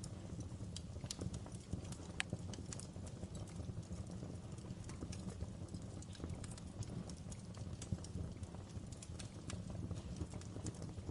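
Wood fire crackling in a fireplace: a steady low rumble with irregular sharp pops and snaps scattered throughout.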